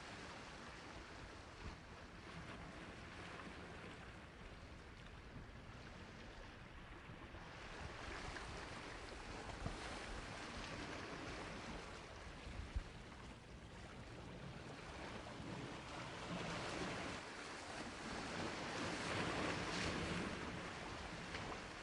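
Sea waves washing onto the shore, a continuous hiss that swells louder and washes back, peaking near the end. A couple of faint sharp ticks sound in the middle.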